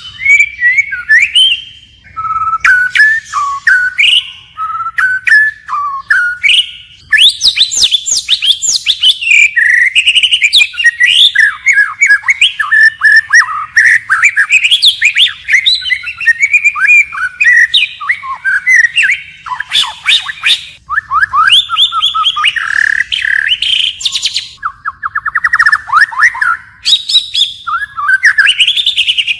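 White-rumped shama singing a loud, varied song of quick whistled sweeps and trills, switching phrases continuously in the wild-type style, with a buzzy rattling phrase near the end.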